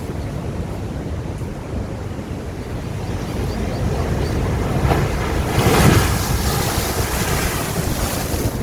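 Sea waves washing against the shore: a steady low wash builds and a wave breaks in a loud hiss about six seconds in, then eases off.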